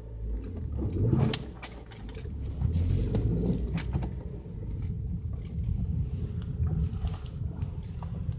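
Hyundai Elantra engine idling at a raised speed of about 1200–1500 RPM while the car is stopped with the engine still cold, heard from inside the cabin. Scattered light clicks and rattles sit over the steady low rumble, most around a second in and again about three to four seconds in.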